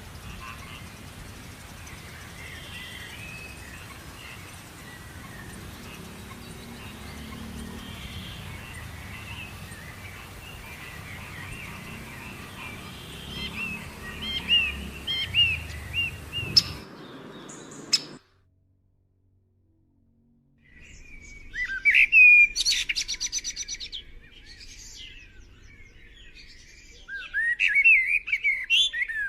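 Small birds chirping and twittering over a low rumble of breeze, with the chirps getting louder after about 13 seconds. The sound cuts out completely for about two seconds, then comes back with closer, louder bird calls, including a rapid trill.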